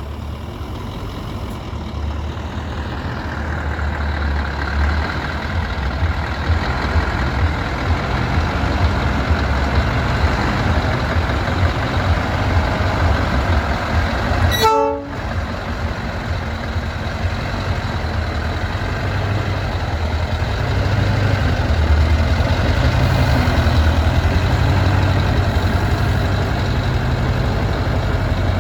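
Scania V8 diesel truck engine running with a steady low-pitched sound, growing louder over the first few seconds and again later on, with a brief break about halfway through.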